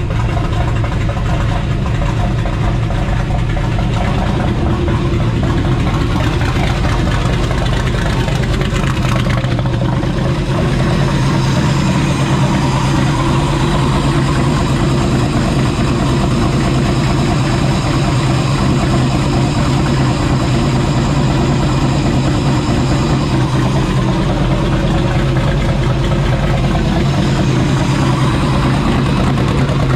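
Freshly built twin-turbo Hemi V8 running at a steady, loud idle just after starting, on its first runs after the build.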